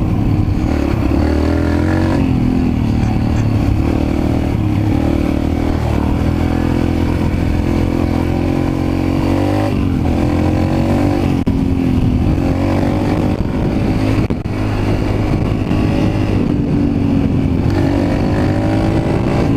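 Mini bike's small engine running under load as it is ridden, its pitch rising and falling several times as the throttle is opened and eased.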